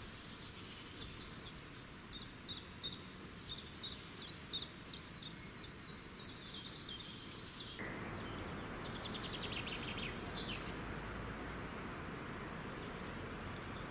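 A small songbird singing a run of short, high chirps, two or three a second, followed by a quicker trill. Under it is a steady outdoor hiss that suddenly gets louder about eight seconds in.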